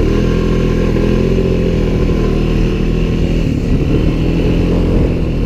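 ATV engine running at a steady speed while being ridden, its pitch holding nearly even with small wavers.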